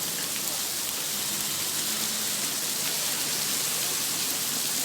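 Heavy rain falling steadily in a severe thunderstorm, an even dense hiss of drops on surfaces.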